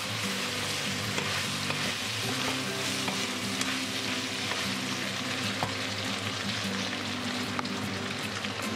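Cubed beef, potatoes, carrots and Jerusalem artichokes sizzling steadily in oil in a stainless-steel pressure cooker pot while being stirred, with scattered light clicks and knocks.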